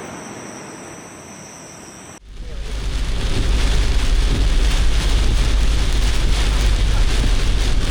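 Heavy typhoon rain, a loud steady downpour with strong low rumble, which starts abruptly about two seconds in after a quieter stretch of steady hiss with faint high tones.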